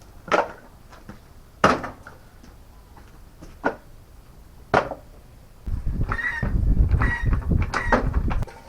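Four sharp knocks spaced a second or more apart, then about three seconds of loud rumbling and scraping, as wheel chocks and a jack are set in place under a lawnmower to raise it.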